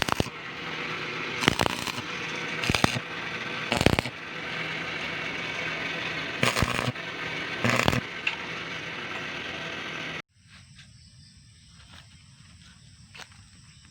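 Metalworking noise: six sharp metallic strikes about a second or so apart over a steady crackling hiss. It all stops suddenly about ten seconds in, leaving faint ticks and a thin high whine.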